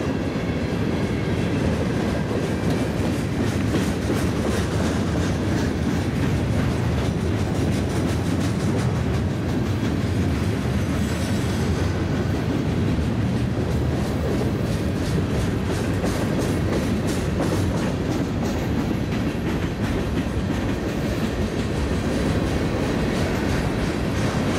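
Freight cars of a Norfolk Southern manifest train rolling past close by: a steady rumble of steel wheels on rail, with a running clatter of clicks as the trucks cross rail joints.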